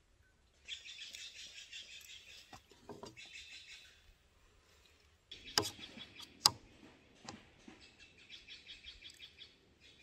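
A bird chirping in fast trilling runs a few seconds long, with a pause in the middle. Two sharp clinks of a metal fork against a plate come just after the pause and are the loudest sounds.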